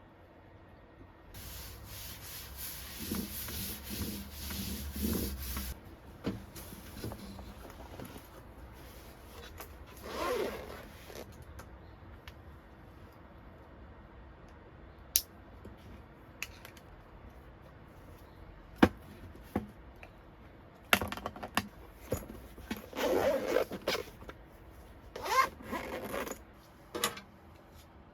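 Things being handled: bursts of rustling and rubbing, the longest early on with a low rumble under it, and scattered sharp clicks and knocks, the loudest about two-thirds of the way through.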